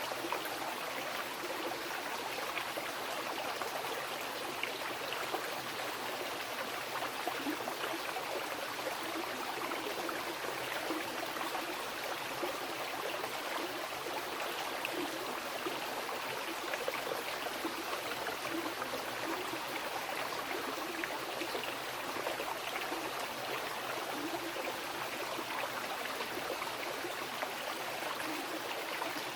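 Mountain river rushing and splashing over rocks: a steady, even water noise.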